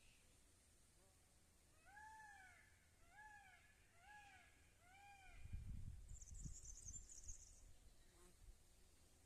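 Faint animal calls: four short, cat-like calls about a second apart, each rising then falling in pitch. They are followed by a low rumble and a brief high buzzing chirp.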